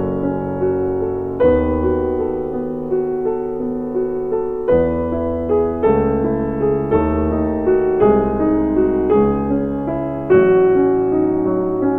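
Background piano music: slow, gentle chords struck about every second or so and left to fade.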